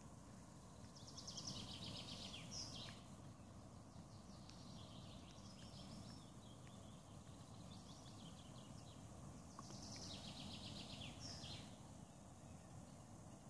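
A songbird singing short trilled phrases, one about a second in and another near ten seconds, over a faint, steady low background rumble.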